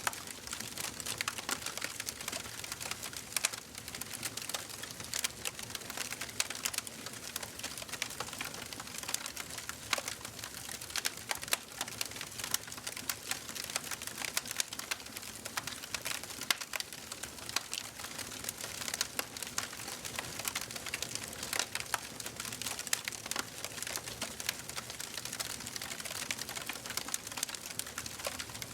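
Fire in a fireplace crackling: a dense, irregular stream of small pops and snaps over a soft hiss.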